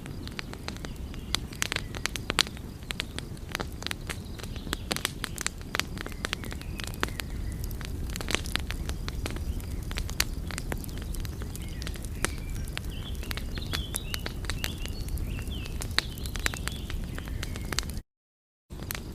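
Wood fire crackling, with dense irregular pops and snaps over a steady low rumble of flames. Faint, thin, high chirps waver in the middle, and the sound cuts out to silence for a moment near the end.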